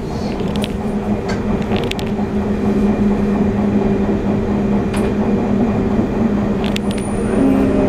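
Running sound of a Sotetsu 9000-series train with a Hitachi IGBT VVVF inverter, heard from inside the car: steady rumble with a low, even inverter-motor whine and a few short clicks and creaks. Near the end a new, slowly falling whine comes in as the train begins braking for the station.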